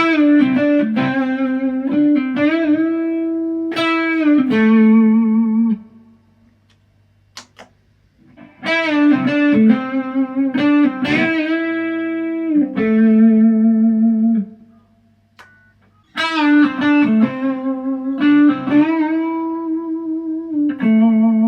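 ESP LTD EC-256 electric guitar playing the same short melodic lick three times, with a pause between each. Held notes carry vibrato and string bends.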